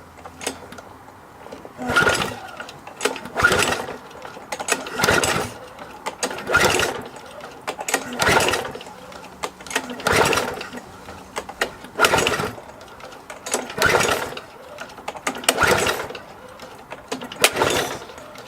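Petrol lawn mower's recoil starter cord pulled about ten times in a row, roughly one pull every two seconds, the engine turning over briefly on each pull but not catching.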